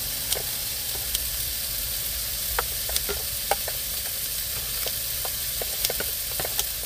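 Meat frying in a pan: a steady sizzle with irregular sharp pops and crackles of spattering fat.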